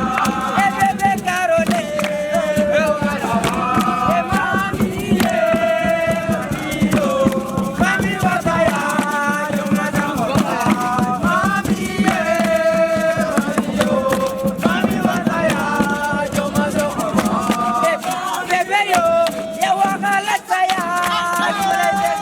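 A group of voices singing a campfire chant, with fast, steady rhythmic percussion underneath.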